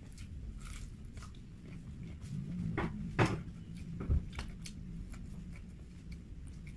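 Biting into and chewing a fried chicken drumstick close to the microphone, with scattered sharp mouth clicks and a couple of louder crunches about three and four seconds in.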